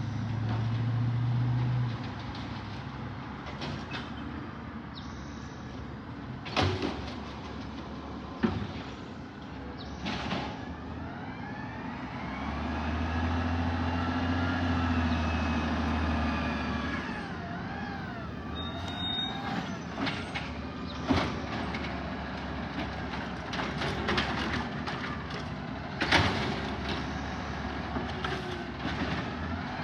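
Garbage truck at work: its engine runs steadily, with a whine that rises and falls in pitch through the middle, and several sharp bangs and clanks.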